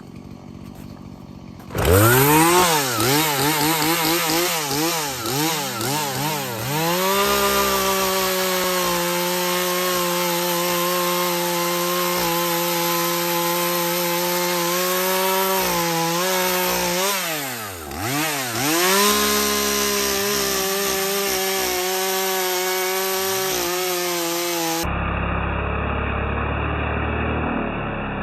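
Husqvarna 240 two-stroke chainsaw cutting into a tree trunk: it comes in about two seconds in with a few quick revs, then runs at full throttle through the cut, dips once briefly and runs up again, and sounds duller and quieter near the end.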